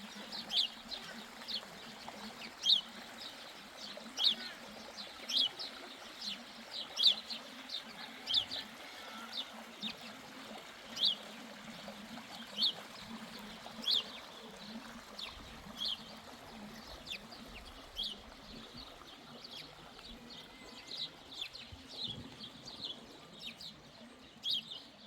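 Small birds chirping outdoors: many short, sharp, high chirps repeating irregularly, over a faint steady background murmur.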